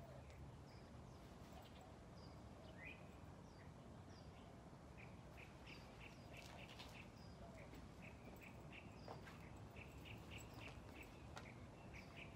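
Faint birds chirping over quiet outdoor background noise: a few rising chirps at first, then a quick run of short repeated chirps through the second half.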